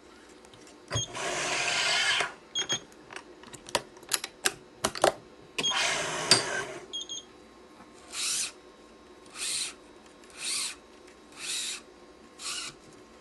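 Yonex Nanogy 99 cross string being pulled and woven through the mains of a badminton racket, making rasping, zipping strokes. Two longer pulls with sharp clicks between them are followed by five short, even strokes about a second apart.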